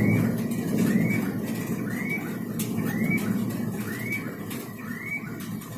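Thunder rumbling and slowly fading, with a short high squeak repeating about twice a second over it.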